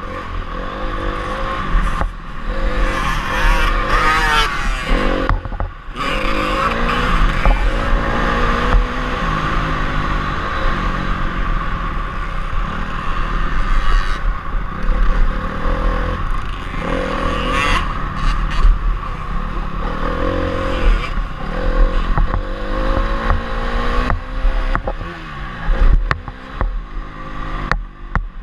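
Honda CRF250R's four-stroke single-cylinder engine revving up and down again and again through the gears as the motocross bike is ridden hard around the track. Short rattles and knocks come through over bumps.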